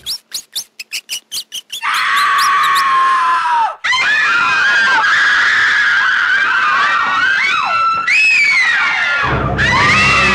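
A quick run of short, high, rising squeaks. Then a loud, high human scream breaks off just before four seconds in, and several seconds of overlapping wavering shrieks follow. Low scary music comes in under a last shriek near the end.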